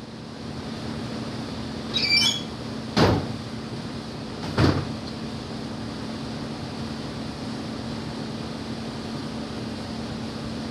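Steady machine hum. About two seconds in there is a short high squeal, followed by two sharp bangs about three and four and a half seconds in.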